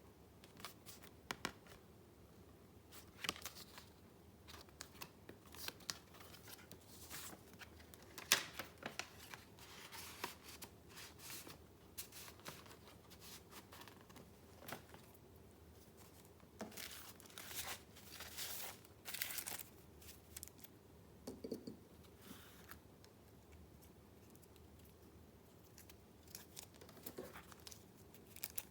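Paper being handled: sheets and paper pieces of a handmade junk journal rustling and crinkling, with scattered light taps and clicks that come in irregular clusters.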